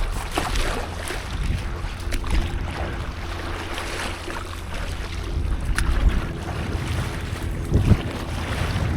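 Seawater splashing and lapping around a stand-up paddleboard, with wind rumbling steadily on the microphone.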